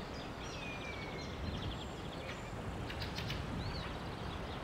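Songbirds calling in the open countryside: short chirps, quick trills and whistles, with one arching whistle near the end, over a steady low background hiss of ambience.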